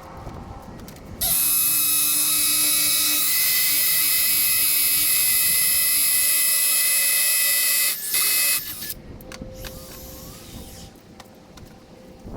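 Power drill running at a steady high whine for about six seconds, then a short second burst. The drill is at work on shed construction.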